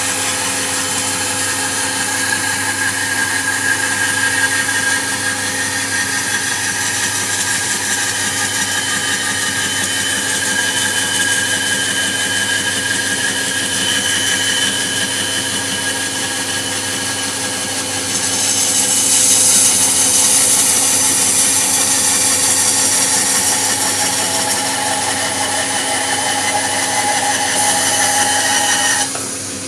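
Small electric motor and saw of a miniature model sawmill running steadily with a whine. It grows louder and hissier for several seconds past the middle, then drops off sharply near the end.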